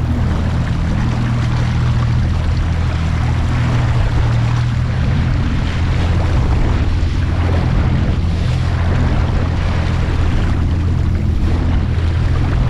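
Small boat's outboard motor running steadily, with water and wind noise over it.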